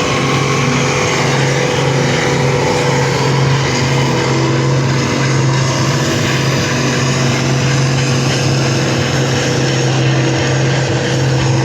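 Farm tractor engine running loud and steady at an even pitch, as in a stock tractor pull.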